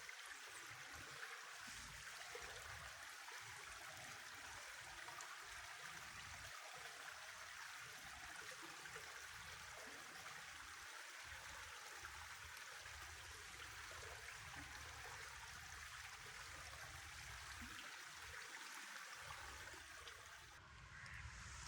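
Faint, steady rushing of a river's flowing water, with a fluctuating low rumble underneath; the rushing thins about a second before the end.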